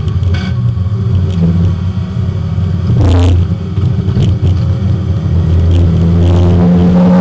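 Porsche 924 race car's four-cylinder engine heard from inside the cabin while lapping at speed. The engine note dips briefly about two seconds in, picks up sharply about three seconds in, and rises steadily in pitch near the end as the car accelerates.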